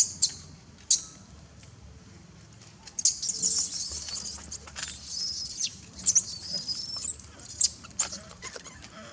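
Baby monkey squealing: a run of shrill, high-pitched cries that rise and fall, starting about three seconds in and ending near the close, after a few sharp clicks at the start.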